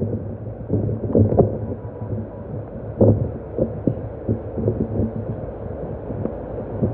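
Rain falling, heard as irregular dull drips and taps of uneven strength over a steady low hum.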